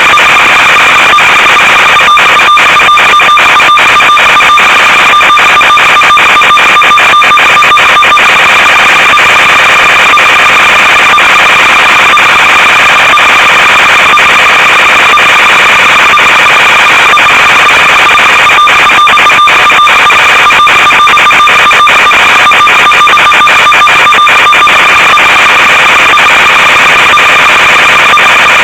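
Loud, constant static hiss with a steady high whine running through it, broken by many brief crackling dropouts: the audio of an analog FPV video link as recorded by the ground receiver.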